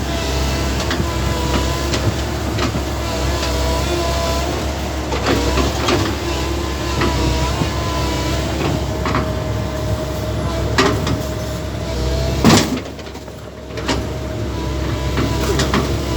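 A machine or vehicle running steadily with a low hum and a wavering whine, with scattered knocks; a sharp knock about twelve seconds in, after which the sound briefly drops off before picking up again.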